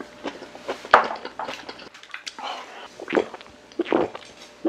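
Close-miked eating sounds: wet chewing and mouth noises from eating raw yellowtail sashimi, in short irregular bursts, with a sharp click about a second in.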